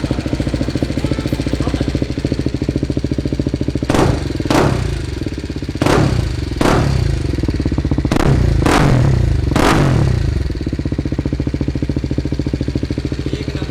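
BMW G310R's single-cylinder engine, fitted with an aftermarket full-system exhaust, idling with a steady thump. From about four seconds in, the throttle is blipped about seven times in quick pairs, each rev dropping straight back to idle.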